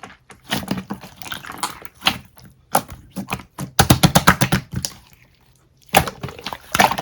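Irregular clicking and tapping, with a quick run of sharp clicks a little before the five-second mark and a short pause before the clicks resume.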